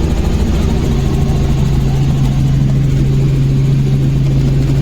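Helicopter running: a loud, steady, unchanging low drone of engine and rotor.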